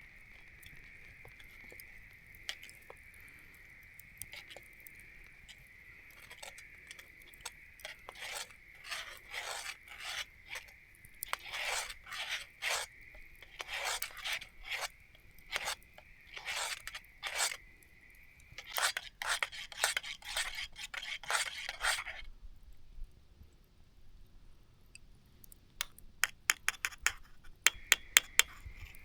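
Repeated short scraping strokes, like metal on metal, over a steady high-pitched hum; the hum cuts off about two-thirds of the way in, and a quick run of sharp clicks follows near the end.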